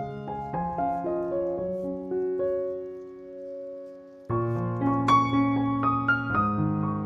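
Background piano music: gentle held chords that fade softly, then start again fuller and louder a little past halfway.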